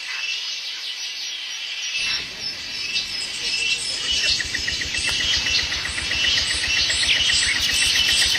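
Forest birds chirping and insects trilling, with a low rumble that comes in abruptly about two seconds in and a fast, regular pulsing that builds toward the end.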